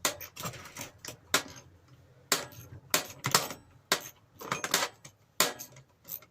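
A spanner clinking against the small nuts of a bench grinder as they are worked loose: a dozen or so sharp, irregularly spaced metallic clinks.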